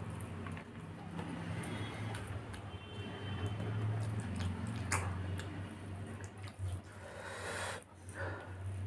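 Wet chewing and mouth sounds of a person eating rice by hand, with fingers squishing and gathering rice on a tray and a few small clicks. A steady low hum runs underneath.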